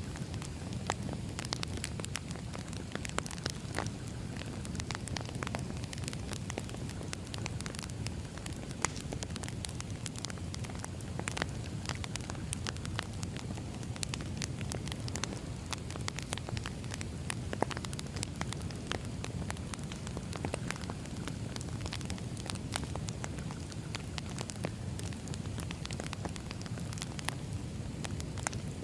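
Wood fire burning, with a steady low rumble and frequent irregular sharp crackles and pops of burning logs.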